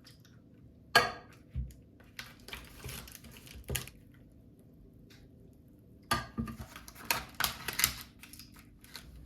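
Kitchen utensils and dishes clinking and knocking: a sharp clack about a second in, then two stretches of clattering, in the middle and near the end.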